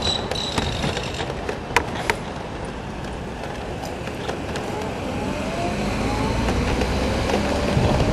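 Road and wind noise from riding an electric motorcycle at speed, the bike itself nearly silent: a steady low rumble and hiss, a few sharp clicks in the first two seconds, and faint rising whines in the second half.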